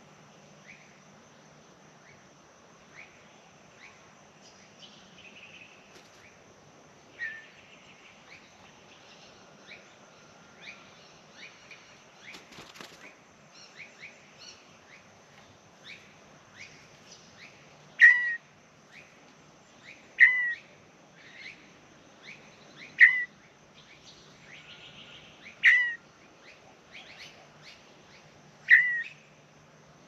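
A bird calling with short, sharp, down-slurred chirps: faint and scattered at first, then louder ones repeated about every two to three seconds through the second half.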